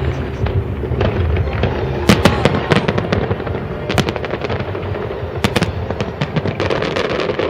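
Fireworks going off in a rapid, irregular string of sharp bangs and crackles, starting about two seconds in, over a steady low rumble.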